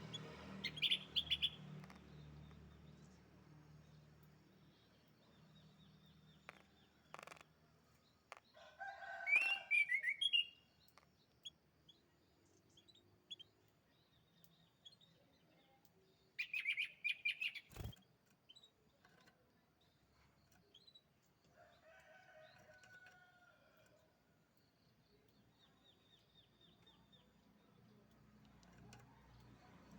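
Canary chirping in short bursts of high trills, separated by pauses: the loudest about a second in, around nine seconds and around seventeen seconds, with fainter ones later. A single sharp click comes just before eighteen seconds.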